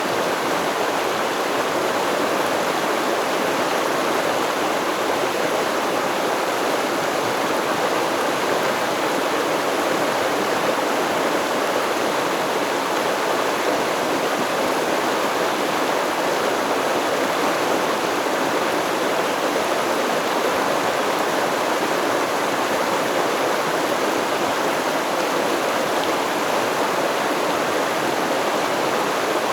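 Stream water flowing, a steady, even rushing that does not change.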